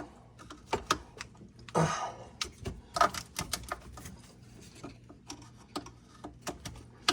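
Plastic clicks and taps of a multi-pin wiring-harness connector being worked loose and pulled off a module, with its latches snapping and rattling at an irregular pace. There are louder snaps about a second in and about three seconds in.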